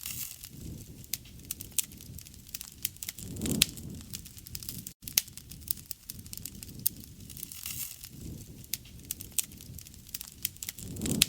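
Wood bonfire crackling: frequent sharp pops and snaps over a low rush of burning, which swells about three and a half seconds in and again near the end.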